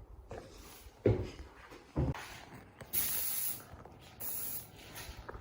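Paint sprayer spraying doors in short hissing passes, about two seconds in a row, with a couple of dull knocks before them.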